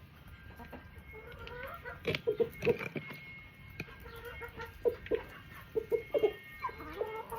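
Backyard chickens clucking: short, repeated clucks from several birds, coming in quick clusters from about two seconds in.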